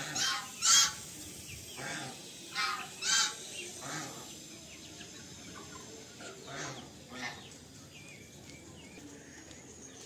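A series of short, harsh bird calls, loudest twice in the first second, then several more until about seven seconds in, with faint chirping behind them.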